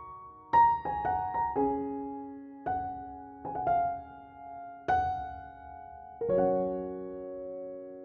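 Slow, gentle background piano music: single notes and chords struck about once a second, each left to ring and fade, with a final chord struck near the end and held.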